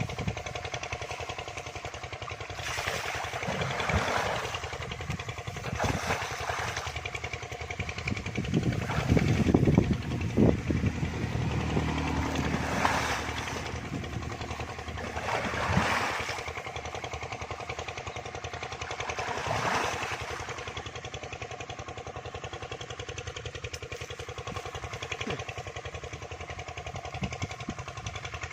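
An engine running steadily at an even speed, with several louder noisy bursts over it.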